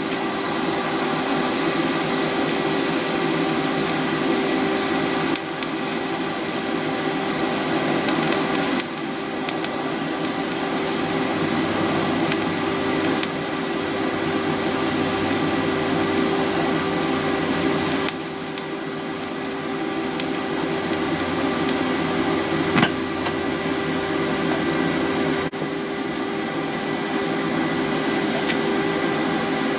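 Arc welding on steel: a steady electric hum with the crackle of the arc, its texture shifting abruptly a few times as the weld goes on.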